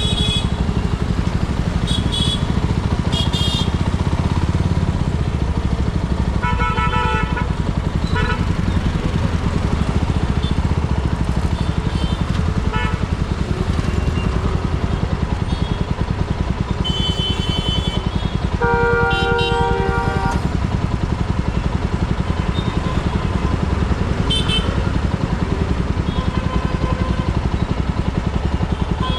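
Motorcycle engine running steadily while riding through dense traffic, with vehicle horns honking: short high beeps near the start and longer horn blasts about 7 and 19 seconds in.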